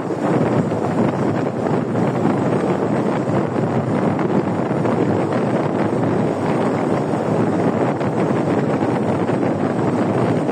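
Steady wind rushing over the microphone of a riding motorcyclist, with the motorcycle's own sound lost in it.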